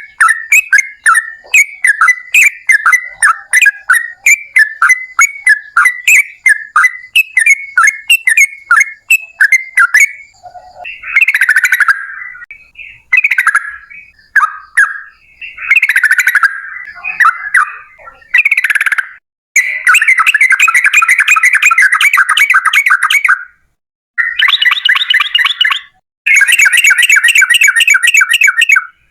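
Yellow-vented bulbul (trucukan) song: about ten seconds of quick, repeated chirping notes, then varied bubbling phrases, then several long, rapid rolling trills of two to four seconds each.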